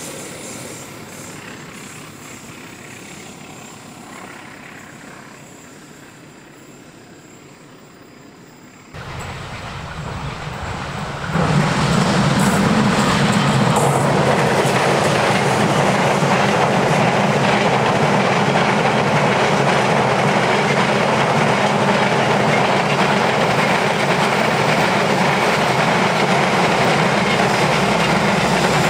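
Diesel-hauled passenger train running on rails. At first it is faint and fading away; after a cut, about eleven seconds in, a train passing close comes in suddenly, with a loud, steady rumble of wheels on track that runs on as the coaches go by.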